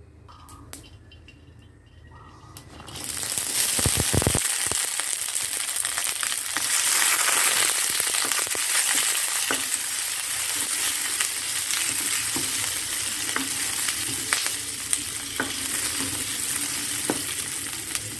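Sliced shallots, garlic and chilli dropped into hot oil in a wok and sizzling, after about three quiet seconds; the sizzle starts suddenly with a few knocks and runs on steadily, with small scrapes and taps of a plastic spatula stirring the seasonings.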